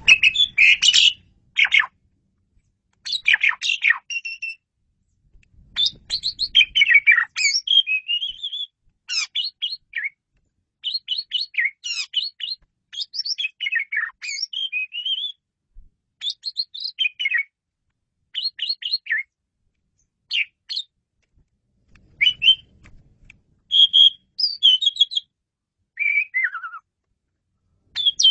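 Asian pied starling (jalak suren) singing: short phrases of rapid chirps and whistles, broken by brief pauses, with a falling whistle near the end.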